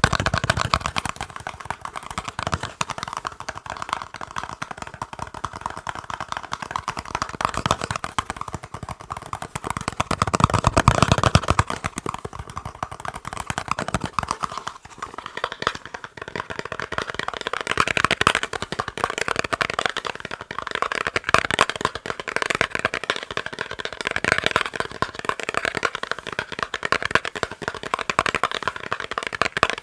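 Fast, continuous tapping on a box, many quick light taps running together.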